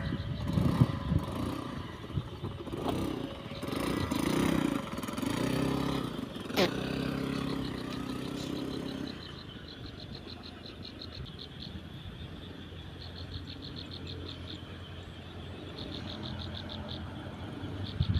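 A small engine runs for about the first nine seconds, with a few knocks and one sharp click, then cuts off. Behind it, and alone afterwards, a fast high-pitched ticking chorus keeps going.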